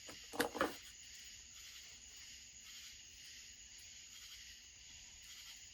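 Two or three quick knocks as chainsaw parts are handled during the teardown, about half a second in, then a steady high-pitched chirring of crickets in the background.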